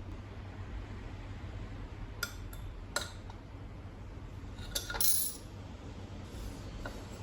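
Metal tools or fork parts being handled: a few sharp metallic clinks, then a louder clatter about five seconds in, over a steady low hum.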